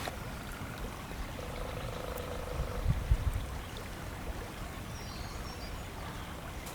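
River ambience on a kayak: a steady low rumble with water lapping, and a couple of soft knocks about three seconds in.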